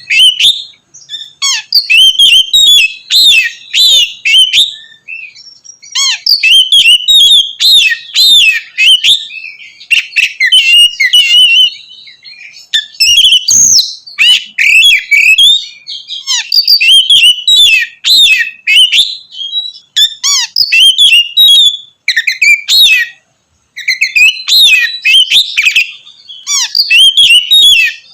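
Oriental magpie-robin (kacer) in full song: loud, rapid phrases of varied whistles and chirps, broken by short pauses between bursts.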